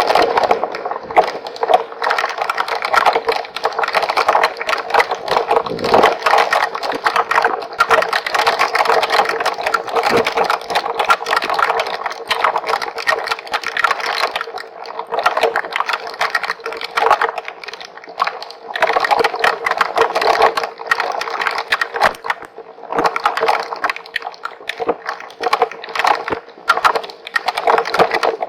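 Hailstones drumming on a trail camera's housing: a dense, loud rattle of hits that does not let up, over a steady low tone.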